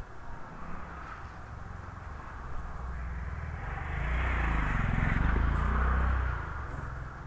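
A motor vehicle passing close by, building up, loudest about five seconds in, then fading away.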